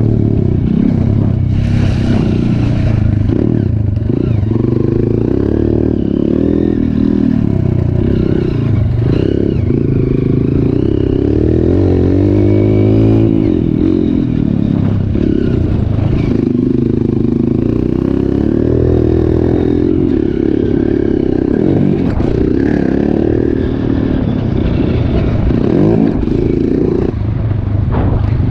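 Trail motorcycle engine running under load, its pitch rising and falling continually with the throttle, with some clatter over it.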